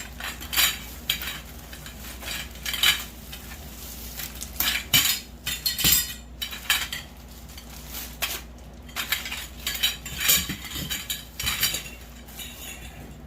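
Metal grow-tent frame poles clanking and clicking against each other and into the corner connectors as the frame is put together, a run of irregular sharp knocks.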